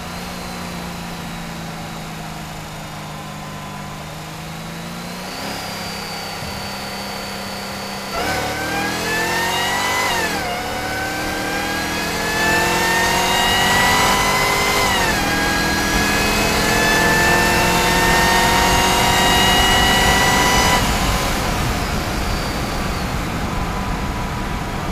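Supercharged Chevrolet Camaro ZL1 V8 under full throttle with the blower whining. It runs gently at first, then accelerates hard about a third of the way in, with the automatic upshifting twice as the pitch climbs. Near the end the throttle lifts and the engine falls back to a steady run.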